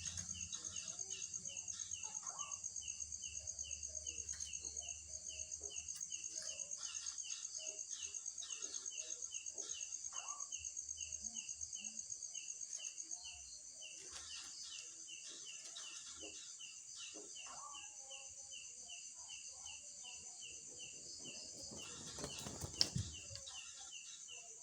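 Night insects calling: an even, rhythmic chirp about three times a second over a high, continuous pulsing trill. A low hum fades out about halfway through, and a brief rustle comes near the end.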